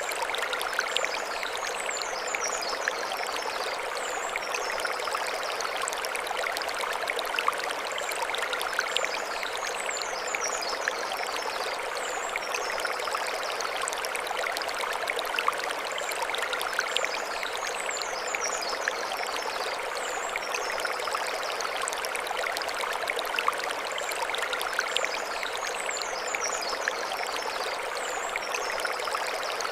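Mountain stream running over stones, a steady even rush of water. A high, fluttering call repeats about every eight seconds above it.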